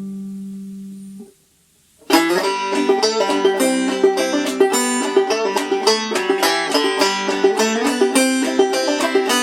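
A 5-string banjo fitted with a Remo Renaissance plastic head, tensioned to 90 on a Drum Dial, played clawhammer style: a brisk run of plucked notes with sharp attacks starts about two seconds in. Before that, a held tone fades out and there is a brief silence.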